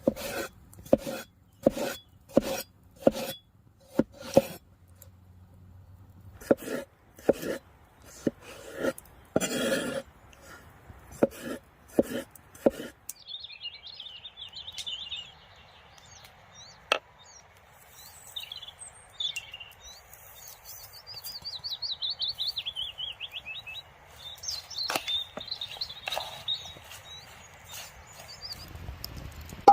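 A run of sharp knocks, one or two a second, for the first dozen seconds. Then small birds sing with rapid high trills and chirps over a faint steady hiss.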